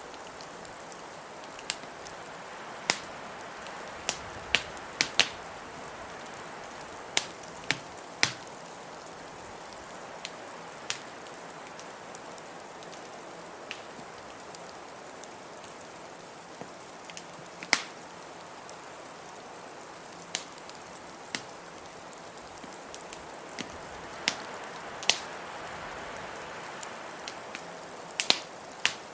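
Wood fire crackling, with sharp pops at irregular intervals over a steady blizzard hiss.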